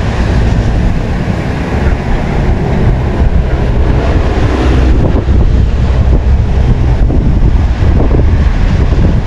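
Wind buffeting the microphone: a loud, uneven low rumble in gusts.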